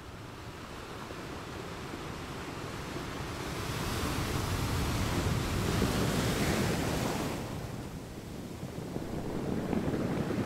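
Road and tyre noise heard from inside a car as it pulls away and speeds up to about 25 mph. A rushing hiss swells through the middle and falls away suddenly, with low rumble building again near the end.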